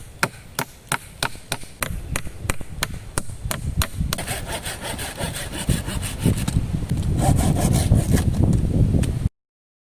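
Wood being worked by hand: sharp regular knocks about three a second, then hand-sawing through wood with a rasping stroke that grows louder, cut off suddenly near the end.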